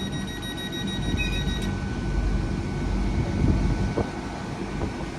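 Great Western Railway express train standing at the platform before departure: a steady low engine rumble with wind buffeting the microphone. A high steady whine stops about a second and a half in.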